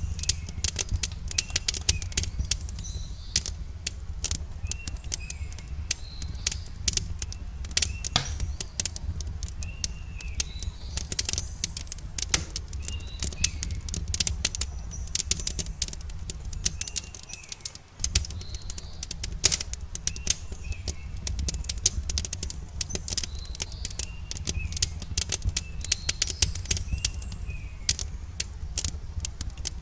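Wood fire crackling with dense, sharp pops over a steady low rumble, while a bird repeats a short curved chirp about every two seconds.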